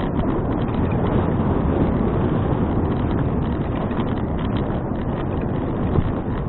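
Steady rush of wind across an action camera's microphone while riding a bicycle, with one brief knock about six seconds in.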